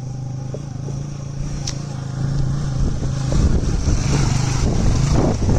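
Motor scooter engine running steadily while riding on a rough track, with a rushing noise growing louder over the second half.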